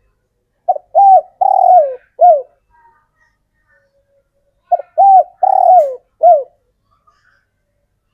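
Male spotted dove cooing: two phrases of four coos, about four seconds apart, most notes dropping in pitch at their ends.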